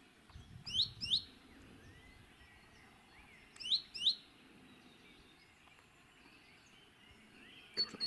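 Small songbird calling: two pairs of short, quick rising chirps about three seconds apart, over a faint outdoor background hiss. A brief click-like sound comes just before the end.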